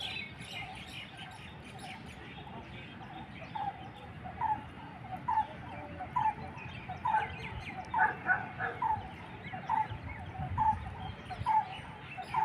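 An animal calling over and over in short calls, about one a second, starting a few seconds in, with small birds chirping at the start.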